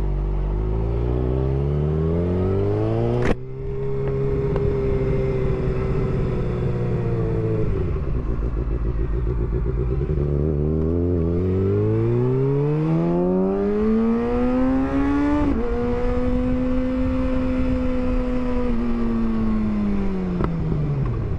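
Motorcycle engine pulling away and accelerating through the gears. The pitch climbs and then steps down with a click as the rider shifts up at about three seconds. It eases off, climbs again, shifts once more, holds steady, and winds down near the end as the bike slows.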